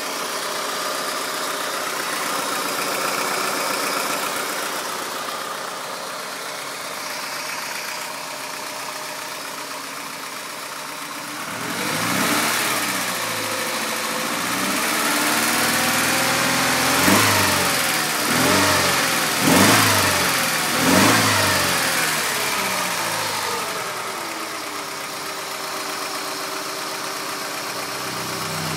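Ford Sierra 2.0 EFi DOHC four-cylinder engine idling steadily, then revved up a little before halfway through, with four quick throttle blips in a row, and settling back to idle near the end.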